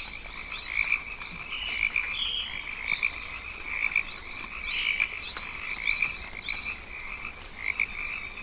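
Chorus of calling frogs, a continuous overlapping run of short repeated calls, with quick high chirps layered above.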